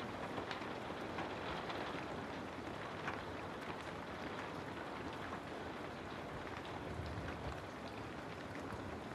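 Steady rain falling, an even hiss of rain with scattered drop ticks, played as a white-noise background.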